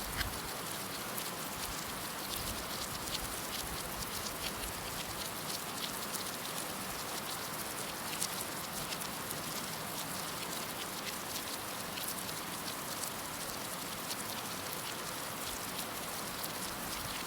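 Steady heavy rain with individual drops pattering and ticking on a surface.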